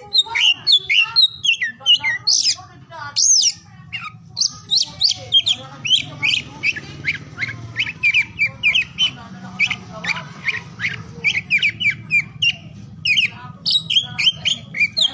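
Oriental magpie-robin (kacer) in full song: a fast, unbroken run of varied chirps, trills and sharp whistled notes. A steady low hum sits underneath from about four seconds in.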